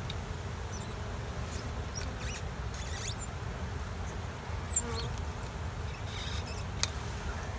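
Honey bee swarm buzzing steadily, with light rustling and a couple of sharp clicks from handling.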